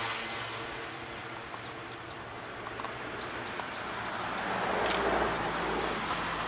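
Vintage Kotoden electric railcar rolling slowly into the station and coming to a stop; its motor hum fades early on and a low rumble swells in the second half. A short sharp sound comes about five seconds in.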